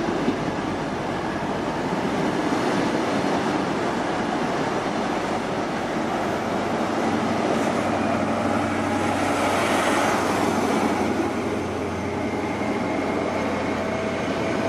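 InterCity 125 High Speed Train's Mark 3 passenger coaches rolling along the platform, a steady rumble and hiss of wheels and running gear that swells a little about ten seconds in.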